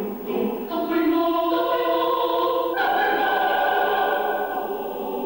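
Choir singing held chords in several parts, moving to a new chord about three seconds in.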